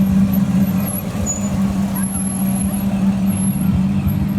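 Car engine running at low speed as it rolls past: a steady low drone.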